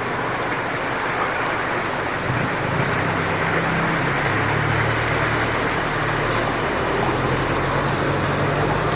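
Strong wind rushing through coconut palm fronds, a steady loud rushing noise. About two seconds in, a low steady hum like an engine joins underneath and holds.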